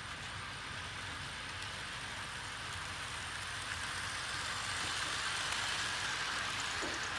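HO scale model diesel-led passenger train running on the layout track: a steady hiss of metal wheels on rails with the locomotives' motors. It grows louder from about four seconds in.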